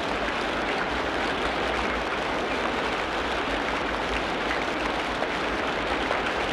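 Tropical rainforest ambience of steady rain falling, an even hiss with no distinct calls standing out.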